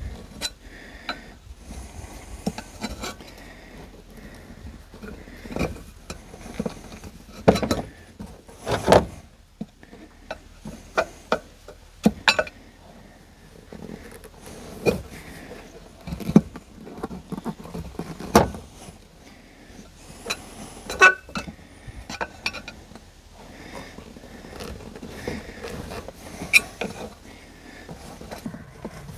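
Irregular clicks, taps and knocks of hand tools and hands working a new inner tube into a tractor tire on its rim, with a faint background hum.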